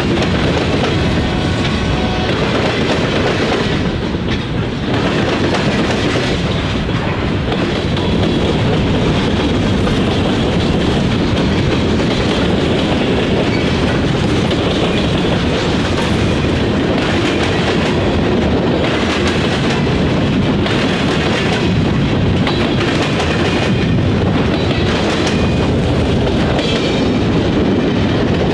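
Freight train cars rolling past, with a steady, loud clatter of wheels over the rails.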